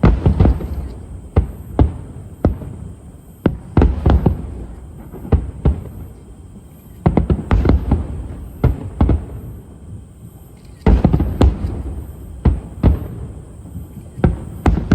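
Aerial firework shells bursting in an irregular string of sharp booms with rumbling tails, bunched into several quick volleys.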